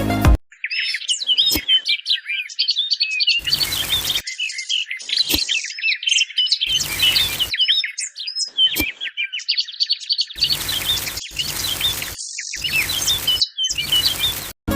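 Many small birds chirping together in dense, quick twitters. Six times, a hiss about half a second to a second long breaks in, and there are a few sharp single clicks.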